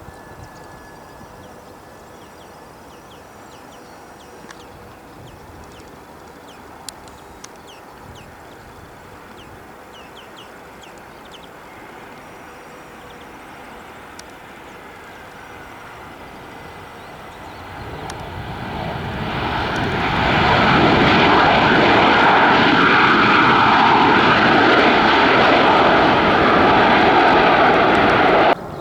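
Airliner's engines heard from the ground: a distant hum that swells over a few seconds, from about two-thirds of the way in, into a loud, steady roar as the aircraft comes close. The roar cuts off abruptly just before the end.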